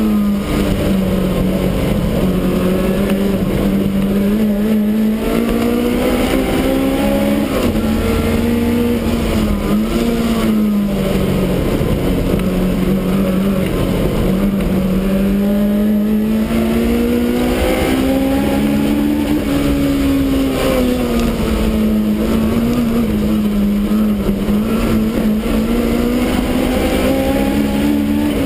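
Supercharged BMW E30 race car's engine heard from inside its stripped cabin while lapping a track, its pitch rising and falling repeatedly as it accelerates, shifts and slows for corners, over a steady hiss of wind and tyre noise.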